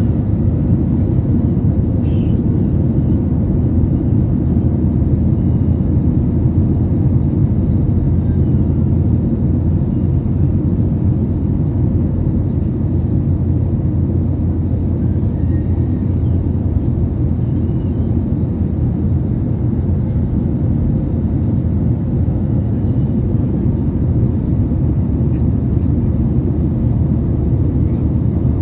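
Steady low drone of an airliner cabin in flight: engine and airflow noise.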